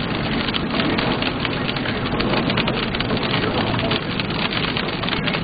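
Rain hitting a moving car, a dense, steady patter of many small ticks, heard from inside the car.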